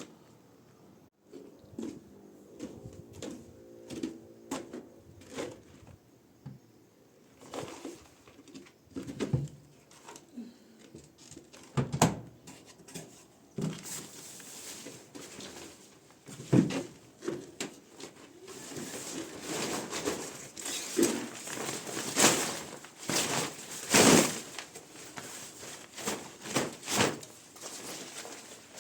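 Handling noise around a washing machine: scattered knocks and taps, then rustling with louder knocks in the second half, as the protective cover is taken off.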